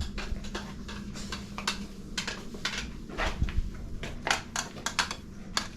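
Irregular light clicks and clinks of kitchen utensils and dishes, such as a spoon against a jar or bowl, over a low steady hum.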